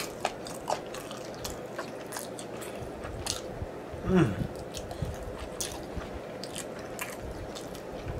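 Close-miked mouth sounds of eating sticky chicken wings: chewing and small wet smacks and clicks as meat is sucked and stripped off a wing bone, with one louder suck at the bone about four seconds in.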